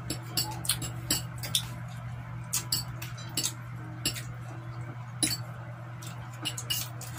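Close-up mukbang eating sounds: chewing and lip smacking as roast chicken and rice noodles are eaten, heard as a string of short wet clicks, with light fork clinks on a plate. A steady low hum runs underneath.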